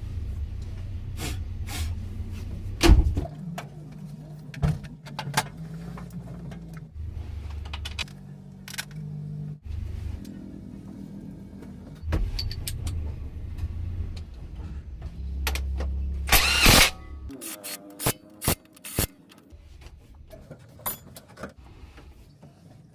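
Workshop sounds: sharp metallic knocks and clanks, the loudest about 3 seconds in and a heavier one around 16 to 17 seconds in, over a low rumble that shifts in pitch several times and falls away near the end.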